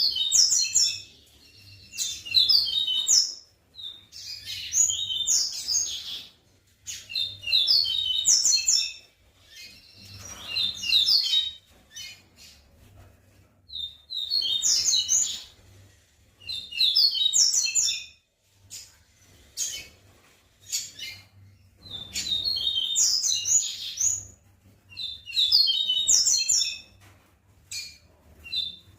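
Caged papa-capim seedeater singing its song in repeated phrases of quick, high, chirping notes, each a second or two long with short pauses between, the breeders' laranjeiro song type.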